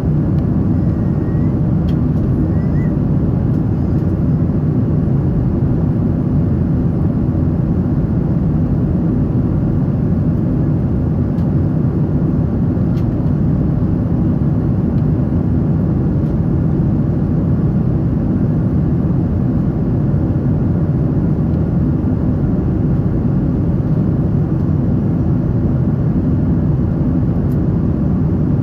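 Steady roar of a Boeing 777-300's engines and airflow heard inside the passenger cabin, even and unchanging.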